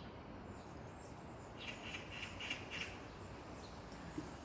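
A bird gives a quick run of about six short calls, from about a second and a half to three seconds in, over a faint steady background hiss.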